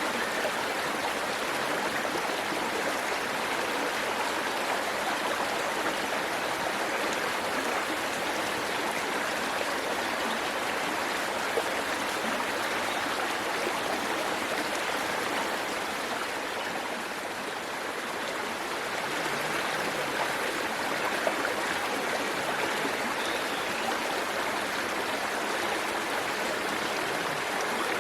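Waterfall rushing steadily: an even hiss of falling water that eases a little for a moment a little past halfway.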